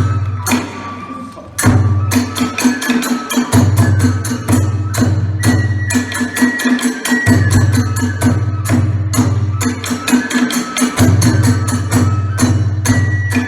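Kagura hayashi ensemble playing a fast, driving passage: rapid dense strikes of drum and small hand cymbals over a low drum that comes in and drops out every few seconds. A high flute line holds long notes in the middle and near the end.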